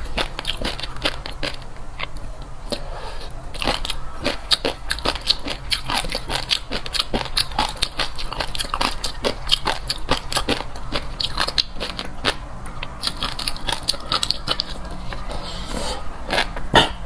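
Close-miked eating of fish roe: dense, rapid crackling and popping as the roe pearls burst while being chewed.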